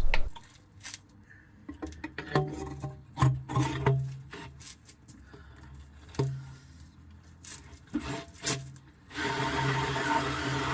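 Drill turning a 1 9/16-inch annular cutter through a Dana 60 axle spindle: short runs of cutting with scrapes and clicks, then steady cutting from about nine seconds in.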